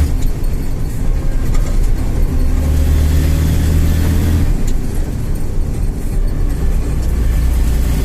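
IFA L60 truck's six-cylinder diesel engine running while driving. The engine note rises about two and a half seconds in and falls away just after four and a half seconds, with a brief click as it drops.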